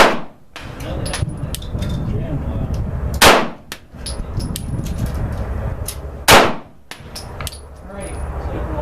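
Girsan MC21 9mm semi-automatic pistol fired three times, slow single shots about three seconds apart, each with a short ringing tail.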